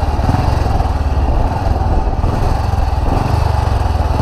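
Loud historic motorcycle engine running steadily, with rapid low firing pulses.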